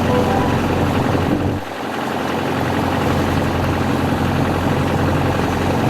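A boat's motor running steadily under way, a low steady drone with a short dip about one and a half seconds in.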